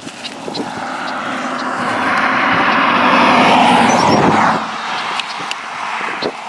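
A car passing by on a road, its tyre and engine noise swelling to a peak about three to four seconds in, then falling away quickly.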